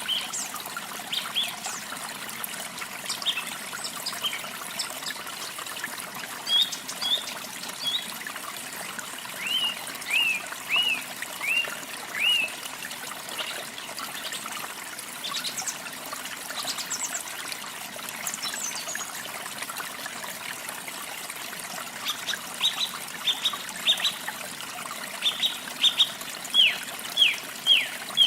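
Small songbirds chirping in runs of short, quickly falling notes, repeated in bouts, over a steady trickle of running water.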